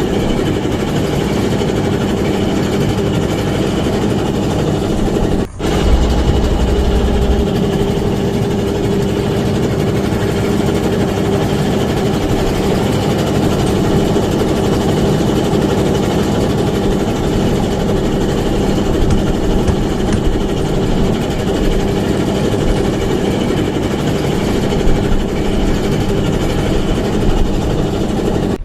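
A small fishing boat's engine running steadily with a low, even drone. There is a brief break about five and a half seconds in, then it runs on unchanged.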